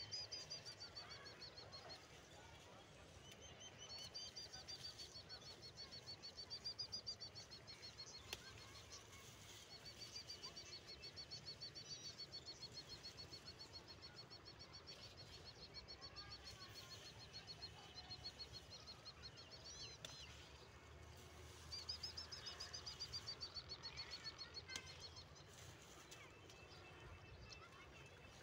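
A bird trilling in long runs of rapid, high-pitched notes that waver slightly in pitch, broken by short pauses.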